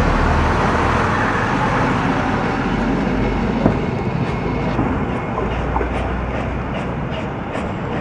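Steam-hauled historic train running on the rails: a steady rumble and rush of rail noise, with a sharp click about three and a half seconds in and scattered lighter clicks later on.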